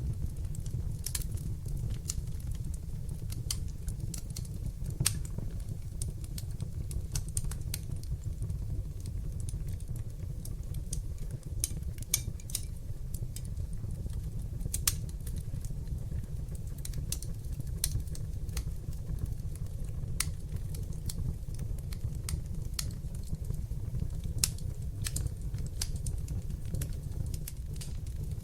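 Wood fire burning in a fireplace: a steady low rumble of flames under frequent irregular sharp crackles and pops, a few of them louder than the rest.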